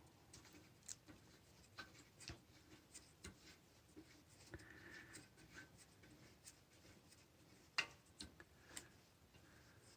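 Near silence with scattered faint clicks and light taps from hand tools and small metal engine parts being handled. The clearest click comes about eight seconds in.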